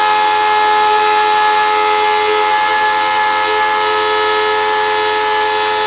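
Hoover upright vacuum cleaner motor running flat out: a loud, steady high-pitched whine over the hiss of rushing air.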